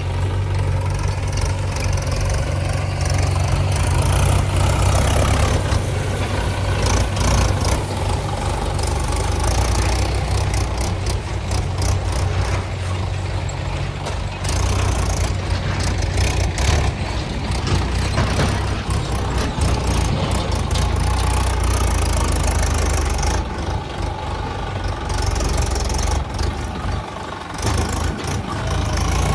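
Diesel engine of a JCB 3DX backhoe loader running steadily at work, with a brief drop in level near the end.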